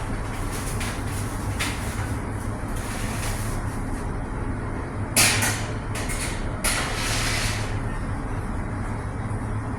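Steady low machinery hum of a large cruise-ship galley, with two brief hissing bursts about five and seven seconds in.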